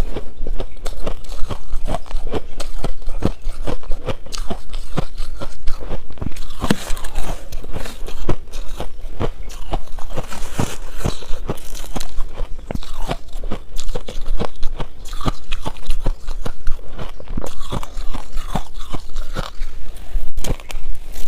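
Shaved ice being bitten and chewed, a continuous run of crisp crunches and cracks, several a second.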